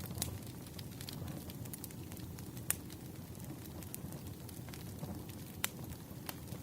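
Wood campfire burning: a steady low rumble of flames with scattered sharp crackles and pops, two of them louder, one a little before the middle and one near the end.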